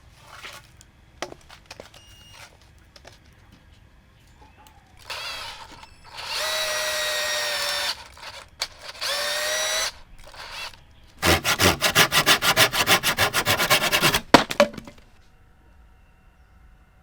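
Power drill running in three short bursts at a steady pitch, then a rapid rattling run of about eight pulses a second for some three seconds.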